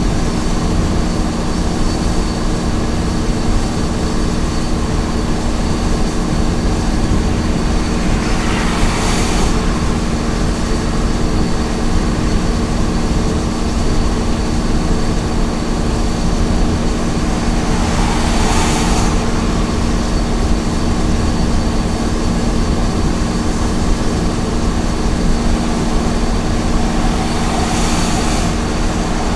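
Small truck's engine running steadily at highway cruising speed over continuous tyre and road noise. Three brief whooshing swells come through about ten seconds apart.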